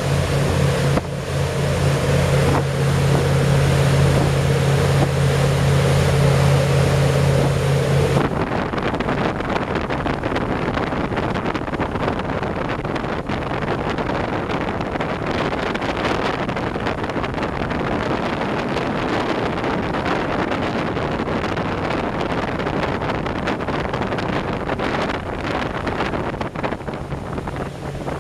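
A boat's engine running steadily with a low drone. About eight seconds in, it gives way abruptly to wind buffeting the microphone and the rush of water under way.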